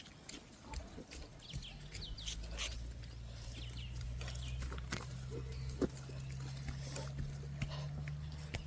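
A bulldog snuffling and grunting on a walk, with light crackles and clicks of steps on a dirt track. A low steady drone comes in about a second and a half in.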